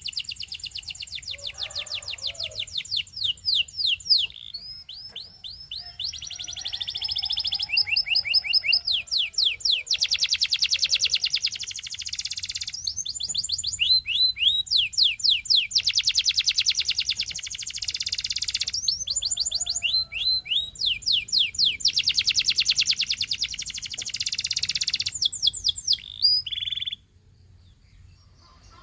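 Canary singing a long song of fast trills: rapid runs of repeated sweeping notes that switch to a new trill every second or two, breaking off about 27 seconds in.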